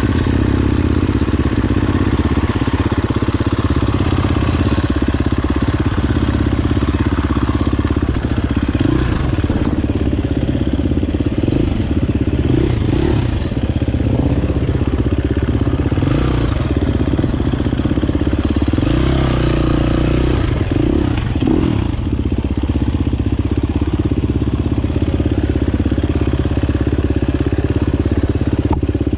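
Dirt bike engine running steadily while riding, its pitch shifting up and down a little.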